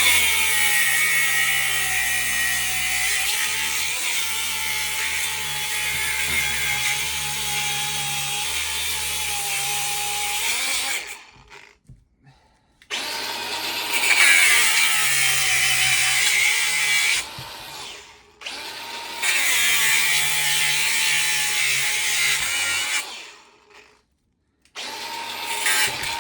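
Pneumatic air hammer running in long bursts while cutting into a refrigerator compressor: one run of about eleven seconds, then two shorter runs with brief stops between them, and a short burst near the end.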